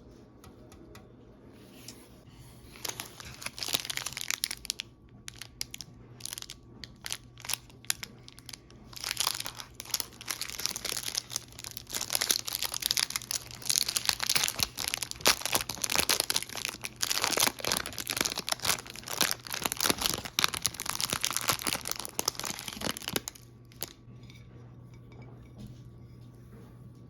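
Snack packaging being crinkled and handled, with dense crackling bouts from a few seconds in until near the end and a sparser stretch about a third of the way through.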